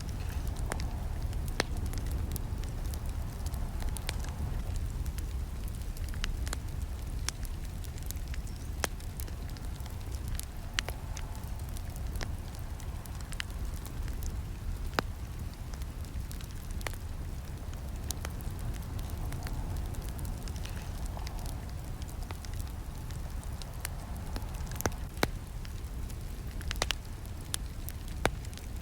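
Campfire burning with a steady low rumble and irregular sharp crackles and snaps of burning wood.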